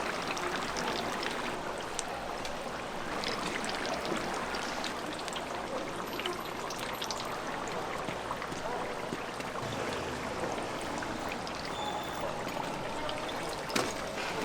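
Food deep-frying in hot oil: a steady sizzle with scattered small pops and crackles.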